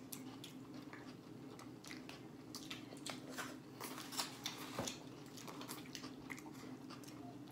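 Close-up chewing and biting of burritos, with scattered wet mouth clicks and smacks. A faint steady hum runs underneath.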